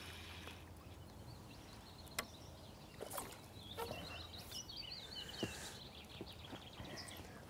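Faint steady background hiss, with a small bird twittering in quick chirps from about three to five and a half seconds in, and a few faint sharp clicks.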